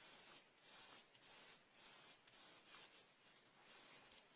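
Faint rubbing strokes on card stock, about six short swishes, as still-wet stamped ink is wiped off the paper.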